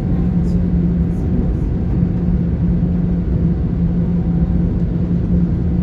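On-board running noise of a GWR Class 800 IET train: a steady rumble with a constant low hum.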